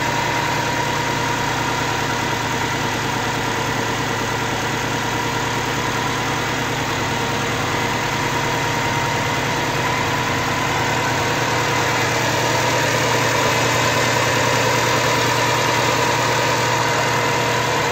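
Freshly rebuilt Subaru EJ25 2.5-litre turbocharged flat-four idling steadily on its initial break-in run, with a steady high whine over the engine note. The idle sounds balanced.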